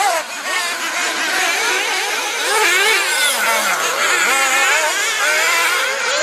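Several 1/8-scale nitro RC buggy engines racing together, their high-pitched buzzing notes rising and falling as the drivers rev up and back off.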